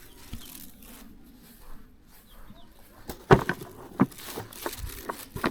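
A quiet stretch, then a series of sharp knocks and clicks starting about three seconds in, the first one the loudest.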